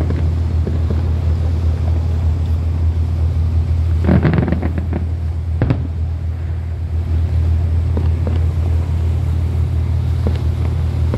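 A river cruise boat's engine running with a steady low drone. About four seconds in, a short, louder noisy burst, followed by a sharp crack about a second and a half later.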